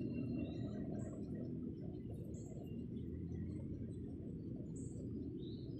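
Birds chirping: short, high chirps every second or so over a steady low background rumble.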